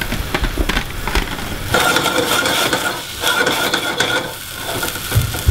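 Asparagus, onion and garlic sizzling as they fry in a stainless steel saucepan with spray oil, with clinks and a stretch of metal scraping as the pans and a glass lid are handled on the hob, from about two seconds in to about four seconds in.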